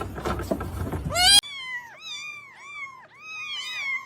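Rustling and knocks end in a loud rising cry and a sudden cut. Then a kitten meows over and over in short, high cries that rise and fall, about three a second.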